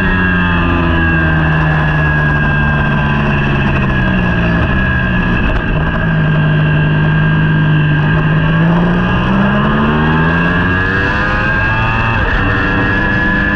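Racing superbike engine heard onboard at race speed, with its pitch falling over the first few seconds as the bike slows, holding steady, then rising again as it accelerates out, over steady wind rush.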